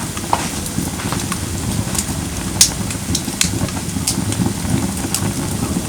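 Firewood burning in a fire pit: a steady low rush with sharp crackles and pops about once a second.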